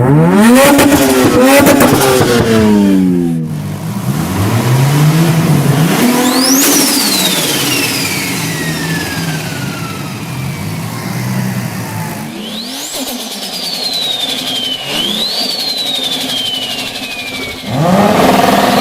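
Turbocharged car engine revved up and down, followed by a high turbo whistle that jumps up and then falls slowly in pitch as the turbo spools down; the whistle rises and falls again twice more before another rev near the end.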